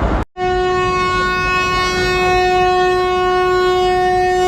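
Locomotive horn sounding one long, steady blast, heard loud from the coach just behind the engine. It is the train's departure signal.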